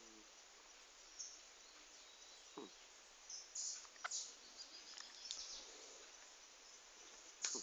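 Birds chirping in short, high calls scattered irregularly over a faint steady hiss, the loudest chirp near the end.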